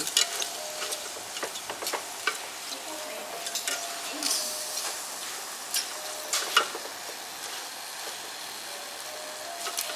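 Pieces of pork fat sizzling in an air fryer's mesh basket as tongs turn them, with scattered clicks and scrapes of the tongs against the basket. The fat is mostly dried out and nearly done, rendering into crispy cracklings.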